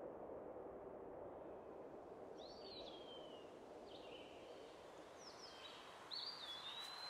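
Faint songbird song: several short whistled, gliding phrases, starting about two seconds in, over a low steady background rumble.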